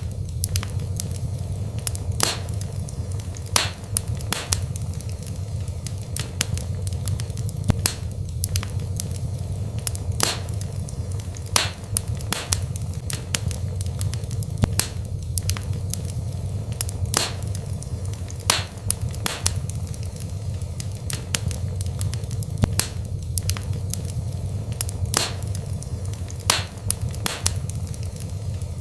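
Wood fire burning in a fireplace, with irregular crackles and sharp pops over a steady low rumble of the flames.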